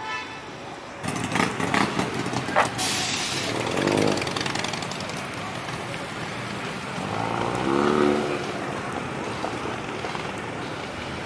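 Car engines revving and pulling away, with a run of sharp crackles about a second in and two loud revs around four and eight seconds in, over steady traffic noise.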